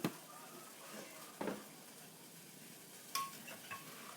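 A spoon or ladle clinking and knocking against a cooking pot a few times, about three separate strikes, the last one ringing briefly, while curry is stirred.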